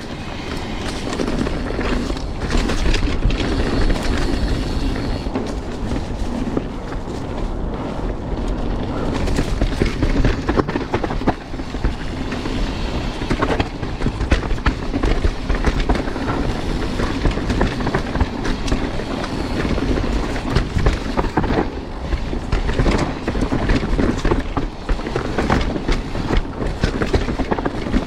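Mountain bike riding over a rough dirt trail: a steady rumble of tyres on the ground with constant rattling and clicking from the bike.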